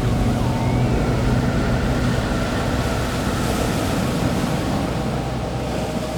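Ambient soundtrack: a steady rushing noise like surf or wind over low sustained tones, with a couple of short gliding chirps in the first second.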